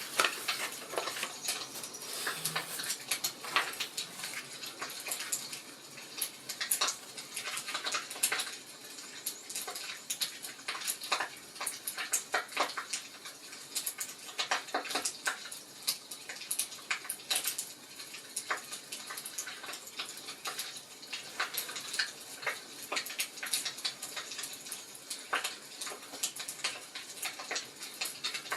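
Wood fire crackling in a fireplace: irregular pops and snaps over a soft hiss.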